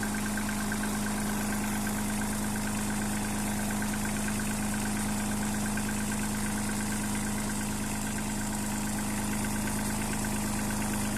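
Kubota tractor's diesel engine idling steadily, with a fast, even pulse in its note.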